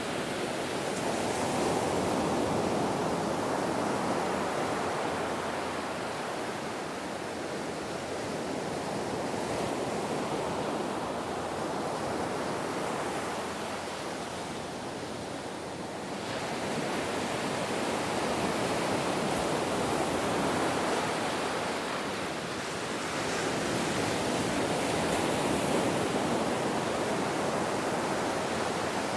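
Ocean surf: a continuous rush of breaking waves that swells and eases about four times, roughly every seven or eight seconds.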